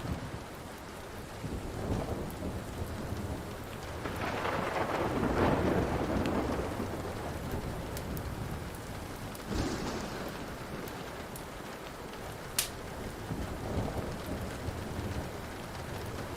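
Steady rain with rolling thunder that swells about four seconds in and fades, then another clap near the middle. A wood fire crackles over it, with a sharp pop later on.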